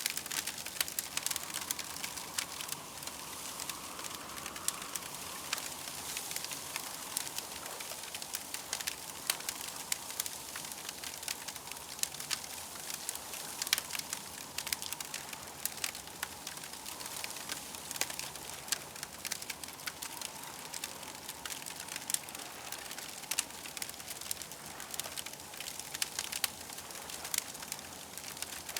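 Campfire burning, with frequent sharp crackles and pops over a steady hiss. A faint wavering tone runs underneath.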